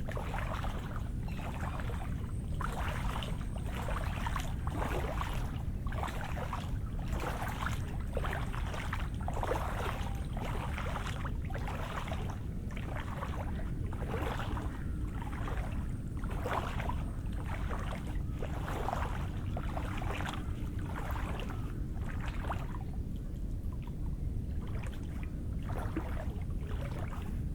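Footsteps on wet, rain-soaked ground, a squelching step a little over once a second at walking pace, stopping near the end. A steady low rumble runs underneath.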